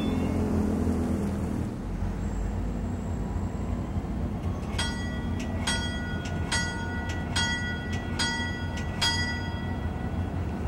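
MARC commuter train rumbling steadily as it comes into the station. In the middle a bell strikes six times, a little under a second apart.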